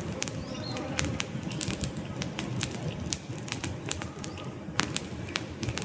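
Wood fire crackling in a fireplace: irregular sharp pops and snaps of burning logs over a low steady rush of flames, with one louder pop about five seconds in.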